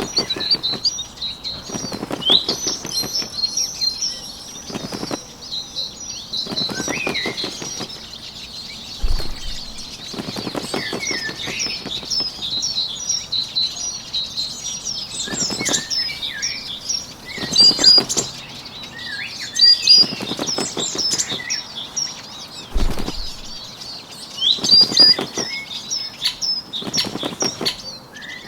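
Bird wings flapping in repeated short flurries, about a dozen in all, roughly every two seconds, over a steady background of songbirds chirping.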